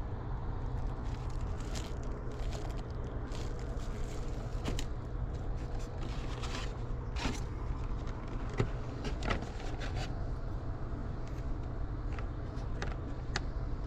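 Items being handled and rummaged through, with scattered scrapes, clicks and rustles, over a steady low rumble.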